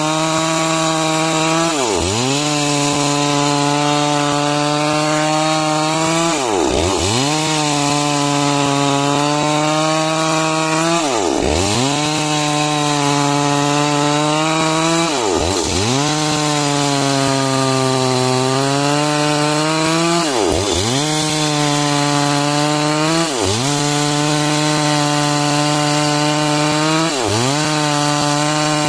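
Chainsaw running at high revs while cutting timber into beams. Its engine note holds steady, with a brief sharp dip in pitch every four to five seconds.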